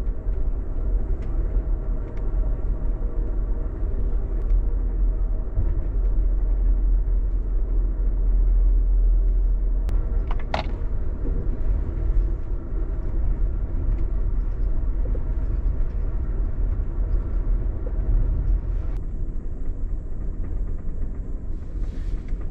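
Steady low rumble of a passenger train in motion, with a single brief high-pitched squeal about ten seconds in.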